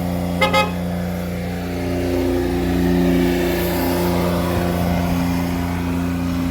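Vehicle engine running at a steady speed, with two quick horn beeps about half a second in.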